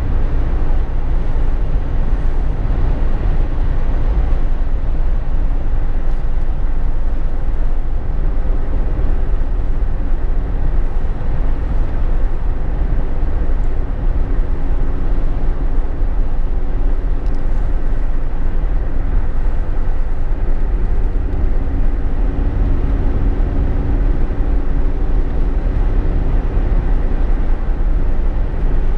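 Jeep Wrangler JK cabin noise while driving at road speed: a steady low rumble of road and wind noise with a faint engine and drivetrain hum under it.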